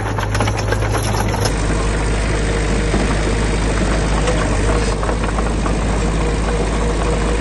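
Diesel engine of heavy earthmoving machinery running, with a rapid, even knocking for the first second and a half, then changing abruptly to a steadier drone.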